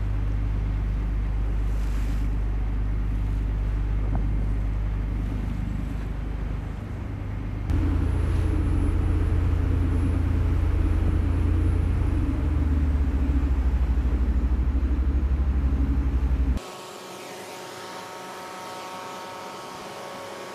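Heavy engines running with a steady low rumble that changes abruptly twice. After the second change there is a quieter machinery hum with several high steady whines.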